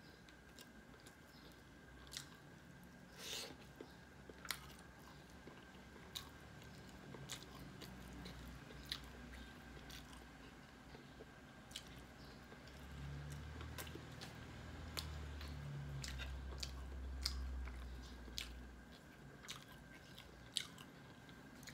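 Close-up eating sounds: chewing, biting and sharp mouth clicks and smacks as chicken curry and rice are eaten by hand. A low rumble rises for a few seconds in the middle.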